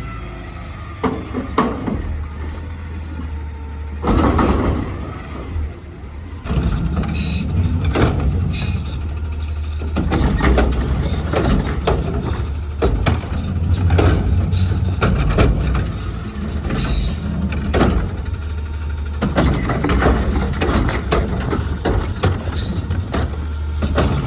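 Garbage truck working at a pickup: its diesel engine running steadily under a stream of knocks and metal clanks, with a few short hisses of air.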